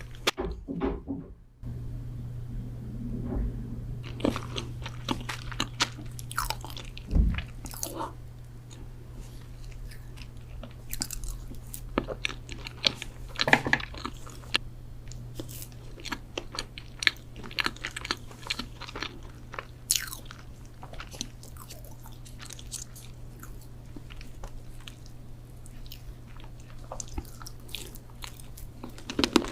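Close-miked eating sounds of chocolate cupcakes: irregular bites and chewing with crunchy crackles and wet mouth clicks, over a steady low hum. The sound drops out briefly about a second in.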